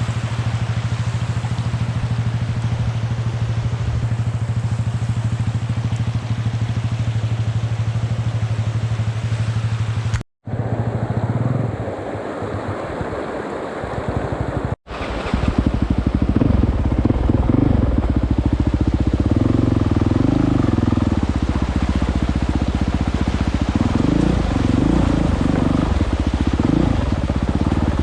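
Enduro motorcycle engine running: steady for the first ten seconds, then, after the sound cuts out briefly twice, louder with its pitch rising and falling as the bike rides under changing throttle.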